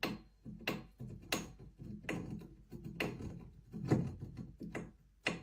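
A series of about a dozen sharp knocks or taps at an irregular pace.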